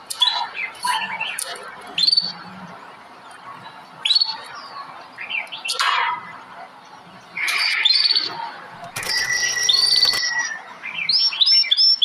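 Several songbirds chirping and calling in short, separate phrases. About three quarters of the way through comes a buzzy call lasting about a second, and near the end a quick run of repeated chirps, about four a second.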